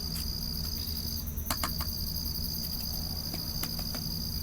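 Crickets trilling steadily, one high continuous note that breaks off briefly about a second in and then resumes, with a couple of light clicks.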